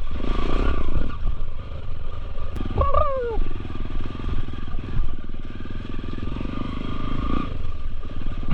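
Off-road motorcycle engine running under throttle at a muddy water crossing, with a burst of hissing noise in the first second. The sound is dulled by a GoPro's waterproof case.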